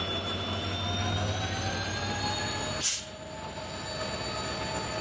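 Diesel-electric multiple unit (DEMU) train pulling out of the station, its engine and traction motors running with a whine that rises slowly in pitch as it gathers speed. A brief sharp burst of noise about three seconds in.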